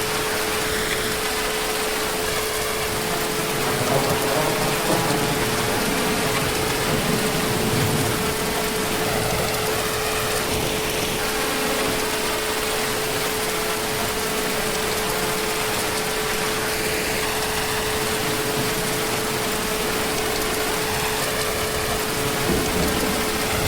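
Heavy rain falling steadily in an even hiss, with a steady humming tone running under it.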